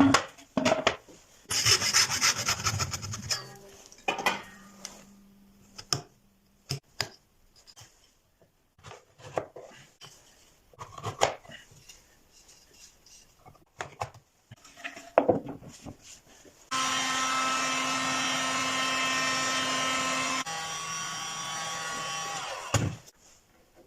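Woodworking sounds. A quick run of saw strokes comes early, then scattered knocks and taps of wood pieces. Past the middle, a small motorised tool runs steadily for a few seconds, drops to a quieter running level, and stops with a knock.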